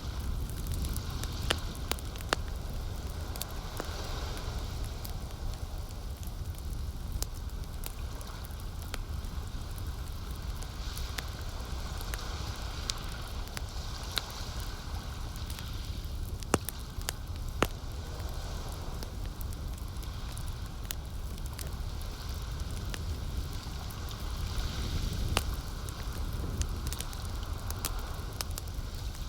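Campfire burning with irregular sharp crackles and pops from the wood, over a steady low rumble and a soft hiss that swells and fades now and then, along with lake water lapping.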